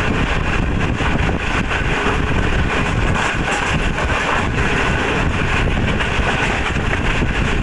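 Passenger train running along the track, heard close from the side of a coach: a steady noise of wheels on the rails, with wind buffeting the microphone.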